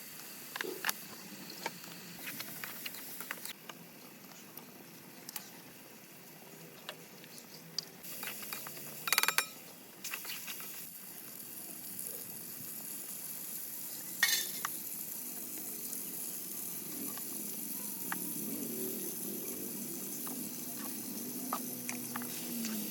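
Food frying in hot oil in a pan, a steady sizzle, with a utensil stirring and clinking against the pan. Two brief louder bursts stand out about nine and fourteen seconds in.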